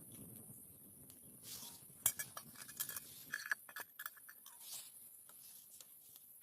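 Light clinks and taps of utensils against cookware, a cluster of them in the middle few seconds, some with a short ring.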